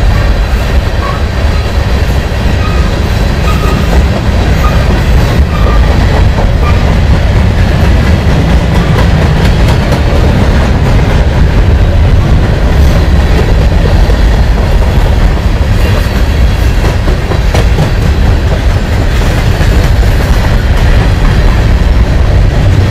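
Freight train cars rolling past, loud and steady, their wheels running over the rails. A few faint, short high squeaks sound in the first several seconds.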